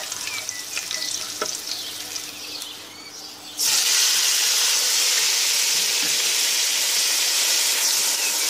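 Cumin seeds and chopped garlic sizzling in hot oil, stirred with a wooden spoon with a few scrapes and clicks, the sizzle dying down. About three and a half seconds in, chopped tomatoes tipped into the oil set off a sudden loud, steady sizzle.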